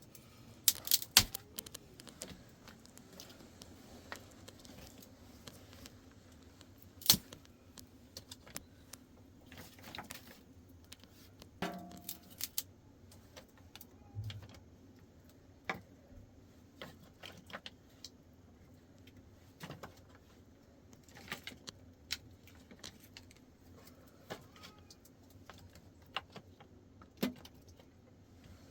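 Irregular clinks and knocks of small hard objects being handled, a few at a time, the sharpest about a second in and again some seven seconds in, over a faint steady hum.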